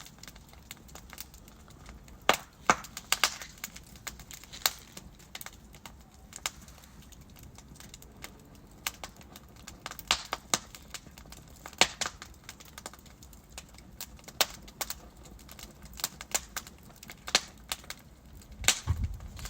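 Wood fire crackling: logs burning with irregular sharp pops and snaps over a low steady hiss, a few of the pops much louder than the rest.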